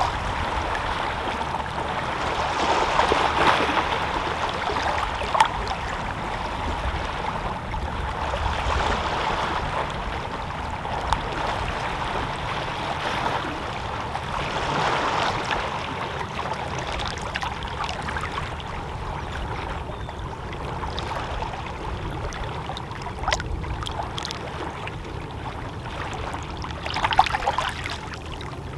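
Calm sea water lapping gently against shoreline rocks: a steady wash that swells and eases every few seconds, with a few short, sharper slaps of water against the rock.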